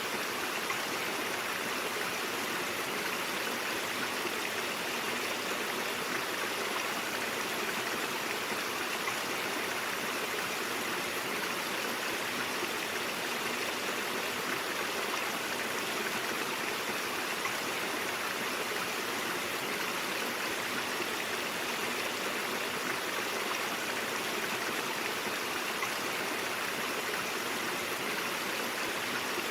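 Stream water flowing and babbling over rocks, a steady even rush with no breaks.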